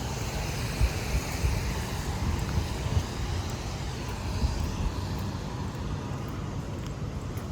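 Road traffic: the engines and tyres of passing vehicles make a steady low rumble.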